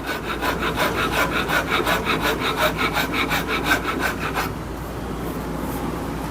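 A hand file rasping back and forth over a black locust wood handle blank, in quick even strokes of about four or five a second, shaping it. The strokes stop about four and a half seconds in.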